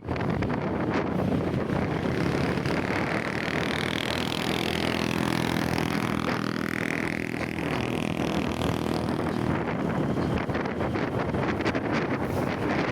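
Strong wind buffeting the microphone. In the middle, a steady drone with a higher wavering whine rises over the wind for about five seconds.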